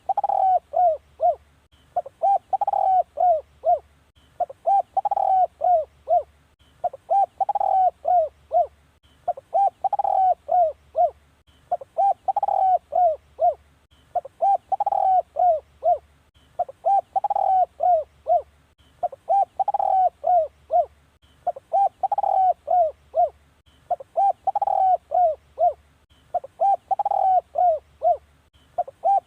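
Spotted dove cooing its call over and over, each phrase a quick run of several coos, repeated about every two and a half seconds. This is the dove's decoy call, used to lure wild spotted doves.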